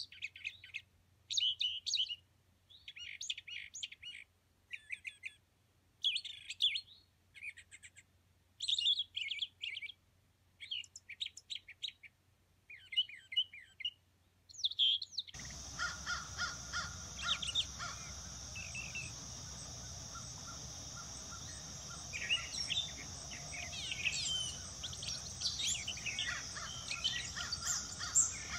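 Birds singing at dawn. For the first half one bird repeats short song phrases every second or two over near silence. About halfway through the sound changes abruptly to several birds chirping over a steady high-pitched background hiss.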